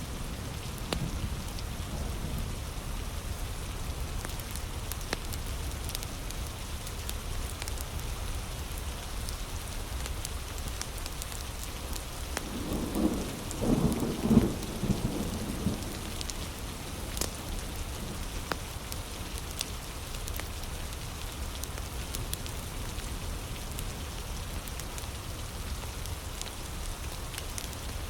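Heavy rain falling steadily, with scattered sharp crackles from a wood fire. About halfway through, a louder rumble rises and fades over a few seconds.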